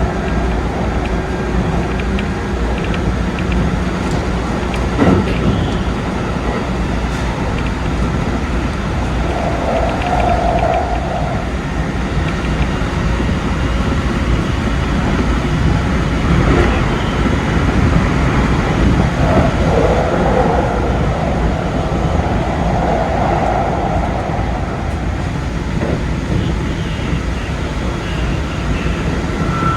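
A Keikyu 2100 series electric train running at speed, with continuous running noise, a few faint steady tones and occasional clicks from the track.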